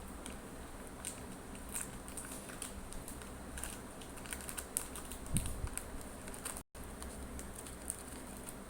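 Irregular light clicks and taps, with a duller thump about five and a half seconds in. The sound drops out completely for a split second near seven seconds.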